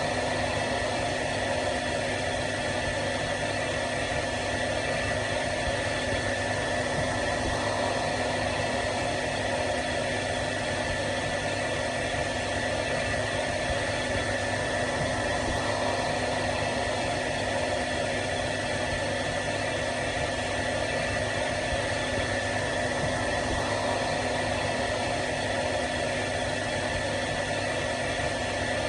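Hair dryer running steadily: an even rushing of blown air with a constant motor hum and a high steady whine.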